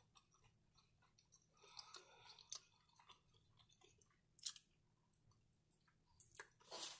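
Faint close-up mouth sounds of chewing a mouthful of cheesy shrimp nachos, with small wet clicks and a sharper smack about four and a half seconds in. Near the end, louder lip and finger smacking as fingers are licked clean.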